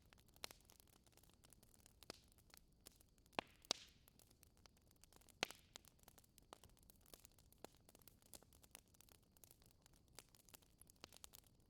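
Wood fire crackling: scattered small snaps and pops over a faint hiss, with a few sharper pops standing out, the loudest around three and a half and five and a half seconds in.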